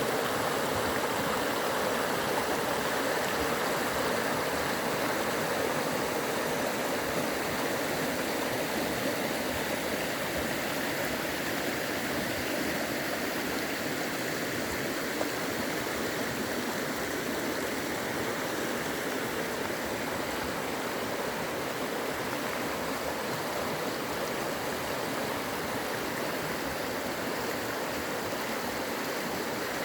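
Rushing water of a mountain creek, a steady, even rush.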